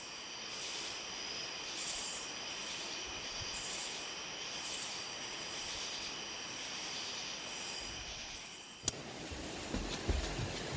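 Steady rushing hiss of the waterfall at night, with a high insect trill held over it and higher chirping pulses repeating every second or two.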